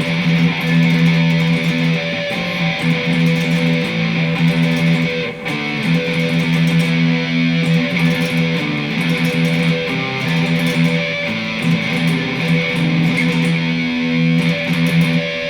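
Electric guitar playing a fast picked pedal-tone riff: a low note drones almost continuously while higher notes change above it, with a short break about five seconds in.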